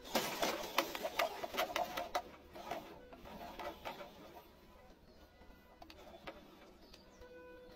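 Small electric motor and gears of a radio-controlled model truck whirring under load, with a run of sharp clicks and knocks as it works over rough ground, busiest in the first couple of seconds, then quieter.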